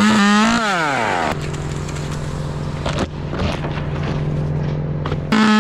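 Small two-stroke chainsaw held at full throttle, then released about a second in so the engine winds down to a steady idle, and revved back up to full throttle near the end.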